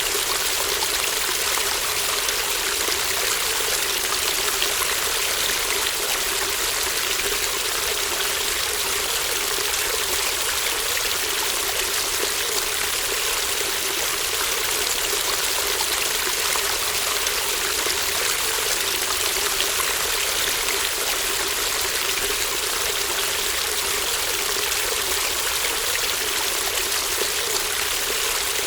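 Shallow stream babbling steadily, an even rush of running water with no pauses or changes.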